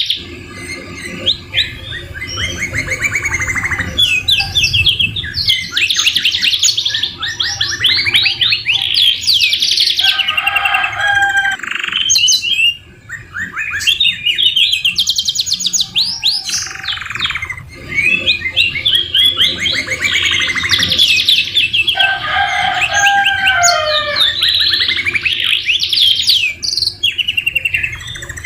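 Domestic canary singing almost without pause: fast rolling trills and rapid repeated chirps, broken by a few lower whistled phrases. The song is filled in with phrases learned from the white-rumped shama (murai batu).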